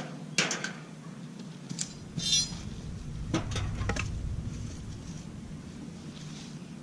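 A few scattered sharp clinks and knocks, with one short rustling scrape about two seconds in, over a low rumble.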